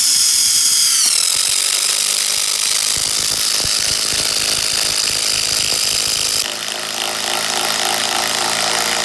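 Ryobi ONE+ 18-volt standard (non-brushless) impact driver driving a 100 mm hex-head wood screw into the end of timber with no pilot hole. Motor whine drops in pitch about a second in as the hammer mechanism starts rapid impacting, which runs on steadily and changes tone about six and a half seconds in.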